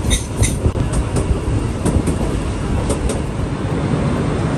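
Mumbai suburban local train running, heard from inside the carriage: a steady rumble of wheels on rails with pairs of sharp clacks about once a second as the wheels cross rail joints.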